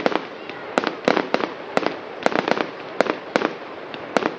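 Fireworks going off: a rapid, uneven series of sharp bangs and cracks, several a second, over a steady background of crackle.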